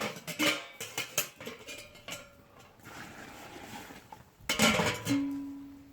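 Kitchenware clattering: a run of knocks and clinks, a louder clatter near the end, then a single ringing tone that fades away.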